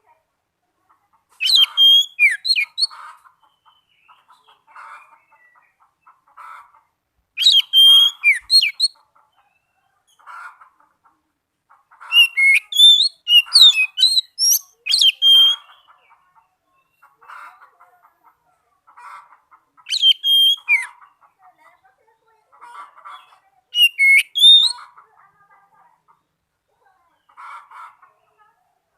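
Oriental magpie-robin (kacer) singing: five loud bursts of varied whistles and rapid chirping notes, the middle one longest. A faint short call repeats about every two seconds underneath.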